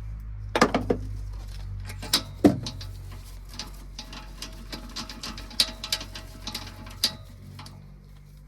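Ratchet and socket clicking and clinking as a spark plug is worked out of the cylinder head. A few louder knocks of the tool come first, then a long run of small, fairly regular ratchet clicks.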